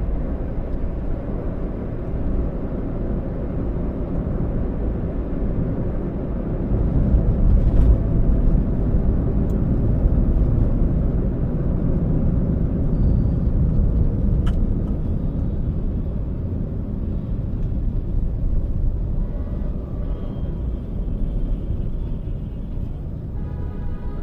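Toyota Allion on the move: steady low rumble of engine and road noise, swelling a little in the middle. Faint higher tones sound briefly near the end.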